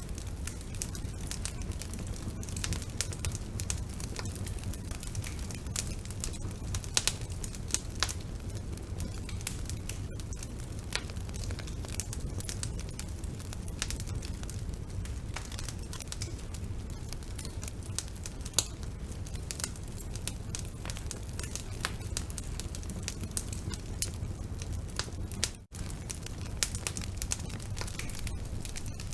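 Wood fire burning in a fireplace: a steady low rumble of flames with irregular crackles and pops from the burning logs, and a momentary drop-out a few seconds before the end.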